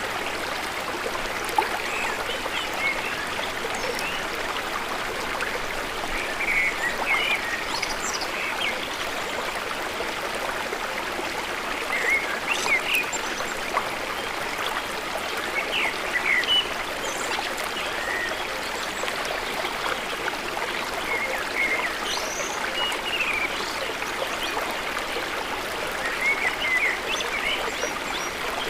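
Forest stream flowing steadily, with birds giving short chirps every few seconds over the running water.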